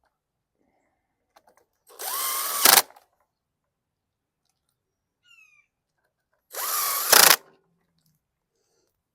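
Power drill with an 8 mm socket driving bolts, in two short runs about four and a half seconds apart. In each run the motor whine rises as it spins up, then holds, and the run ends in a louder burst.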